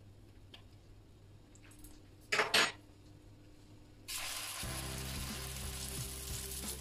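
Spoonfuls of grated-cauliflower batter hit hot oil in a nonstick frying pan about four seconds in and start sizzling steadily. A brief clatter comes about two seconds in.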